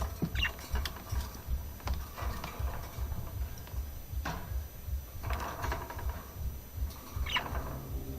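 A pet bird scuffling in its wire cage: scattered clicks and rattles with a few short squeaks, over a steady low rumble.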